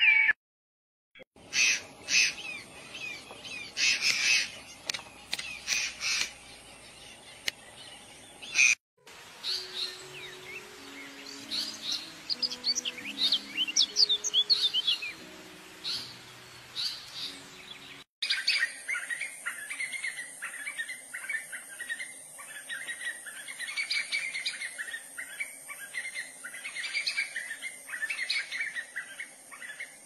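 Bird chirps and calls in three separately edited pieces, with abrupt changes about a second, nine seconds and eighteen seconds in. A faint low melody runs under the middle piece. The last piece is dense, rapidly repeated chirping over a steady high-pitched whine.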